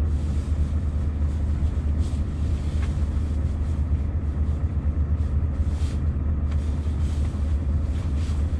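Scania V8 truck engine running steadily, a constant low drone with no change in pitch.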